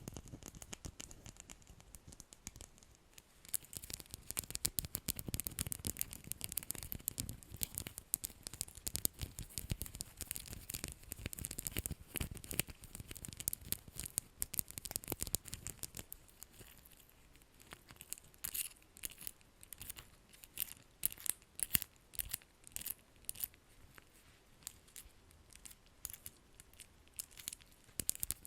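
Rapid close-up tapping and scratching on an object: a dense run of small clicks and scratches that thins out about halfway through, then returns as more separate, sharper taps.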